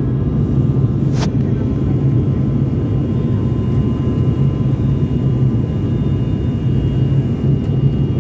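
Steady drone of an airliner cabin in flight: engine and airflow noise heavy in the low end, with a low hum and a few faint steady tones over it. A brief click about a second in.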